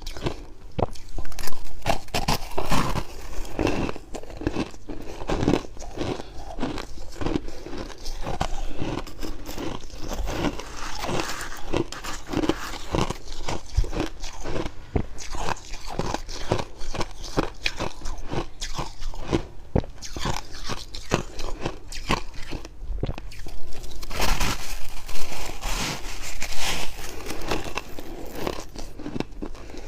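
Close-up chewing of fluffy freezer frost, one dry crunch after another in a steady run, a little louder in two stretches.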